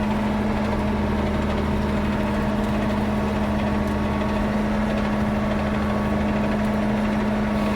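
Ford 9700 tractor's six-cylinder diesel engine running steadily at low throttle, a constant even drone with no change in speed.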